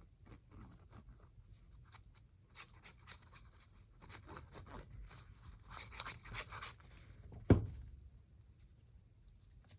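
Paper rustling and rubbing as a cut piece is glued and pressed into a journal, with one sharp knock about three-quarters of the way through.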